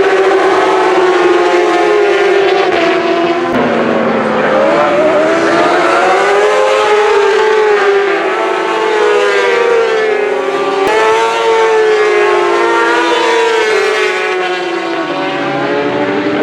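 Racing superbike engines at high revs, several at once, their pitch rising and falling through gear changes as the bikes pass. The sound changes abruptly twice, at about three and a half seconds and near eleven seconds.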